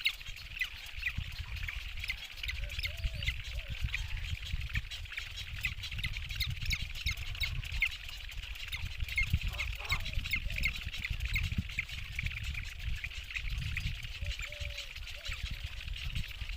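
Anhinga chicks begging in the nest: a steady rapid high chittering of short chirps, with a few faint lower calls, over a low rumble of wind.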